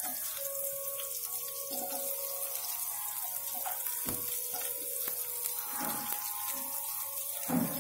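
Chopped onion and garlic sizzling steadily in a little hot oil in a pan.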